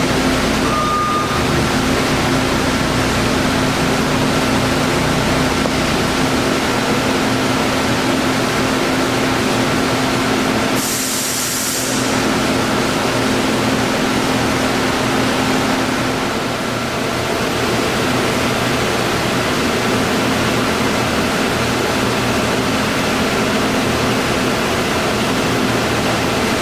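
Harrison M300 engine lathe running with its spindle turning: a steady mechanical hum with a constant whine over it. A short hiss comes about eleven seconds in.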